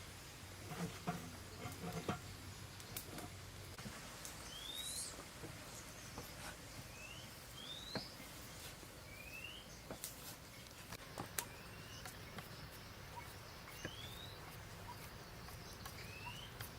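Faint short rising chirps from a small animal, about ten at irregular gaps of a second or two, over scattered light clicks and taps.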